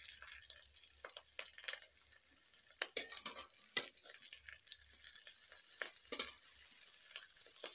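Potato tikkis sizzling in shallow oil in a metal kadhai, a steady high hiss. A metal spatula scrapes and clicks against the pan as the patties are turned over, with the sharpest click about three seconds in.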